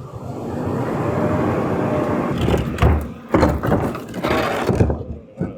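Garbage truck running with its engine building up over about two seconds, then a string of loud bangs and clunks for a couple of seconds before it settles.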